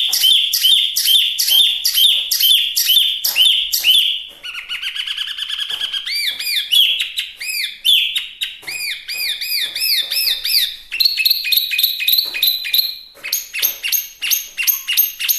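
A Chinese hwamei singing loudly in varied, repeated phrases. First comes a quick note repeated about three times a second, then a short buzzy trill about four seconds in. After that come rising-and-falling whistled notes repeated several times, and finally a faster run of mixed notes.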